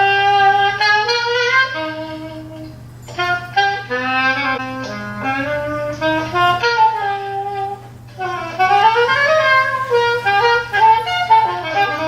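Saxophone recording played back from a computer: a melody in phrases, with short breaks about three and eight seconds in.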